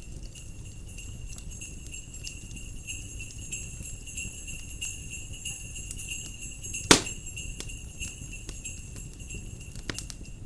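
Jingle bells shaking steadily over a crackling fire, with one loud sharp crack about seven seconds in. A low rumble of wind runs underneath.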